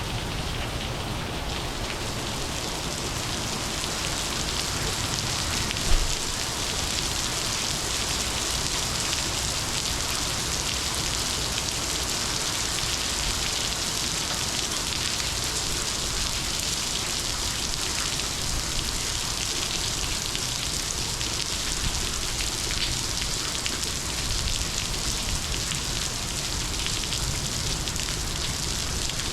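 Heavy monsoon rain falling steadily, with one brief thump about six seconds in.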